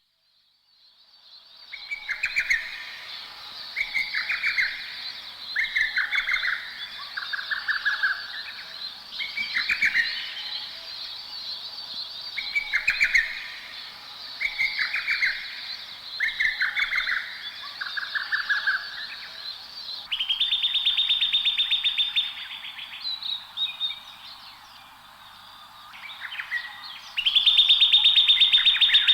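Wild birdsong in highland country: short repeated phrases about every one to two seconds, then twice a long, rapid, buzzy trill of about two seconds, over a steady high background hiss.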